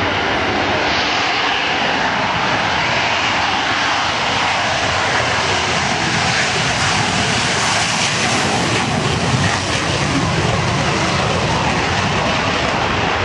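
Aircraft engine running as an airplane departs: a loud, steady rushing noise with no clear tone, holding level throughout.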